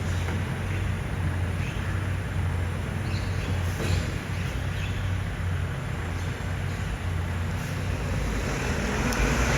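Heavy diesel engine running steadily with a low hum, over street traffic noise.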